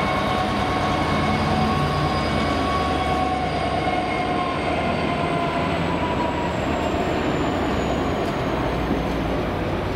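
Freight train hauled by a GBRf Class 66 diesel locomotive passing close by. The locomotive goes by and a long rake of wagons follows, rolling over the rails in a steady rumble, with a few faint high tones slowly dropping in pitch.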